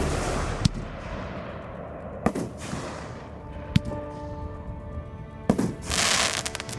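Fireworks show firing: single sharp shell bursts every second or two, each trailing off in a fading hiss, then a louder crackling burst with a patter of small cracks near the end, over music.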